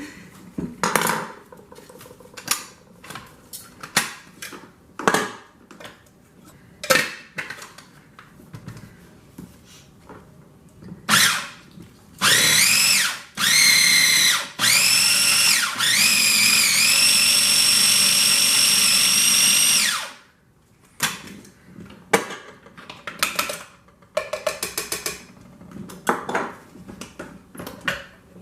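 Small electric food processor running in three bursts in the middle, two short pulses and then a run of about five seconds, its motor whine dipping in pitch and recovering as the blade chops vegetables. Before and after, scattered sharp knocks and clatter.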